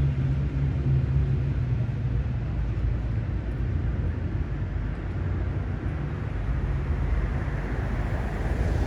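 Car engine running with road noise: a steady low hum, with a rising hiss near the end.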